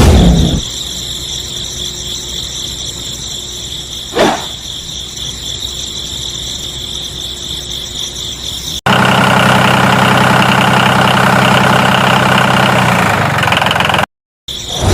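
A small motor runs with a steady hum and high whine, and quick swishes come at the start and about four seconds in. About nine seconds in, the sound cuts abruptly to a louder, lower, engine-like drone, which stops shortly before the end.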